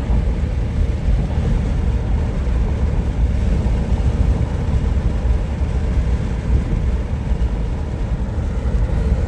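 Steady road and wind noise of a car driving at highway speed, heard from inside the cabin, with a strong low rumble.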